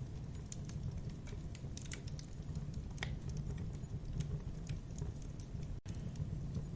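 Wood campfire crackling: irregular sharp pops and snaps over a steady low rumble of burning flames, cutting out for an instant near the end.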